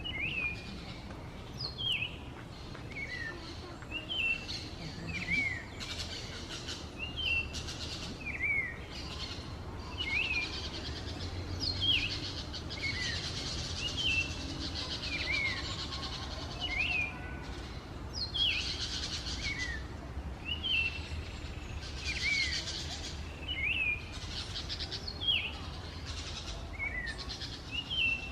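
A wild songbird calling over and over: a short, sharply sweeping note repeated about once a second, with a steady high hiss behind it.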